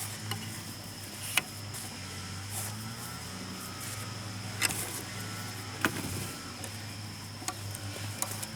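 Steady high insect buzzing, over a low hum, with a few scattered sharp clicks or knocks.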